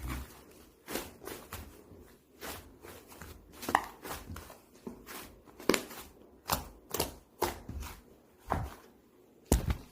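A series of irregular sharp knocks and taps on a hard surface, about one a second, some louder than others.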